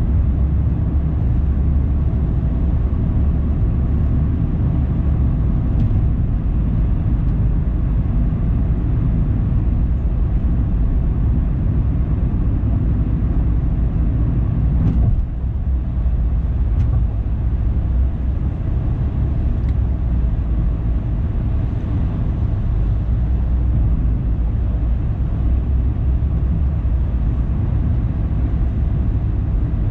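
A car driving: steady low rumble of engine and tyre noise, dipping briefly about halfway through.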